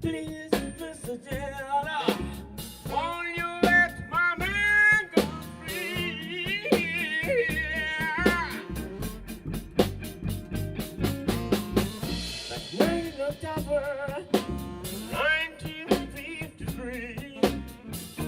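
A rock and roll band playing an instrumental passage, with a drum kit keeping a steady snare and rimshot beat under a wavering lead melody.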